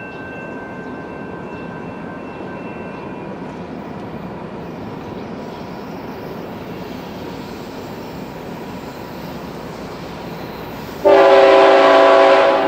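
Steady rumble of a freight train on the rails, then near the end a locomotive's multi-chime air horn starts suddenly with a loud, sustained blast.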